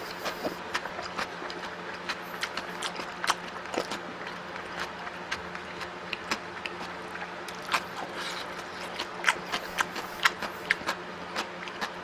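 Close-up eating sounds: irregular wet clicks and smacks of chewing, several a second at times, over a steady low hum.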